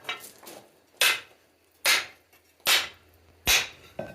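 Hammer blows on hot steel at the anvil's cutting block, striking about once every 0.8 s, each blow sharp and ringing briefly: the steel is being cut through.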